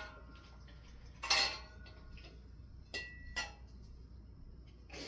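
A few separate clinks and knocks of metal and glass parts as a ceiling fan and its light kit are handled, one of them leaving a short ringing tone.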